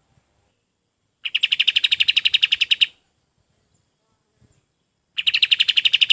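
Kapas tembak songbird calling in two fast rattling trills, each about a second and a half of rapidly repeated high notes, roughly ten a second; the first starts just over a second in, the second near the end.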